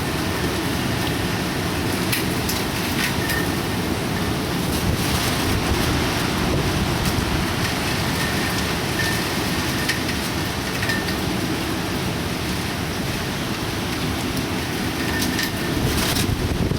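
Heavy typhoon rain: a dense, steady rush with scattered sharp ticks of drops striking hard surfaces.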